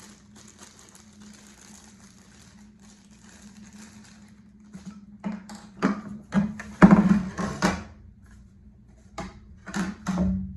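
Paddle shafts and blades being handled: faint rustling, then a run of sharp knocks and clatters from about halfway in, loudest in a cluster around two-thirds of the way through, with two more knocks near the end. A steady low hum runs underneath.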